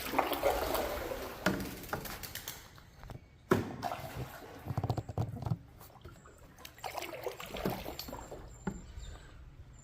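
Paddles dipping and splashing in river water beside a fiberglass canoe, in irregular strokes, with a sharp knock about three and a half seconds in.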